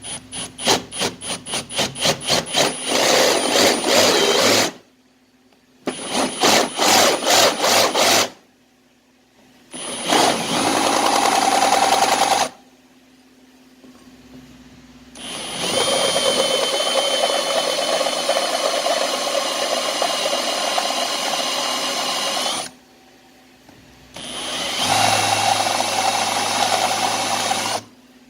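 Electric drill boring into metal in five bursts. The first two come in quick on-off pulses that speed up, and the rest run steady with a high whine, the longest about seven seconds.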